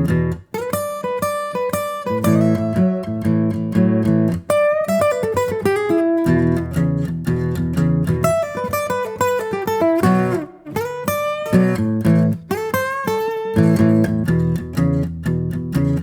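Guitar music, plucked and strummed, with a steady rhythm and chords that keep changing.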